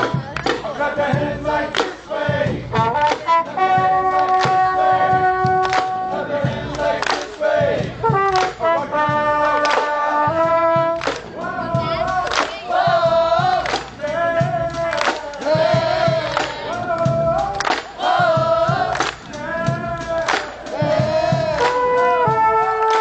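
A college band playing live: held brass chords punctuated by sharp drum hits, with notes that waver in pitch through the middle stretch.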